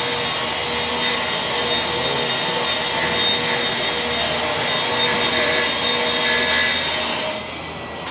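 Angle grinder grinding concrete, a steady loud whine with dense grinding noise. The sound drops and thins briefly near the end, then comes back.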